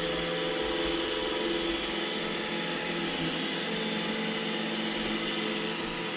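iRobot Roomba E6 robot vacuum running, its motor and brushes giving a steady whine over a hiss.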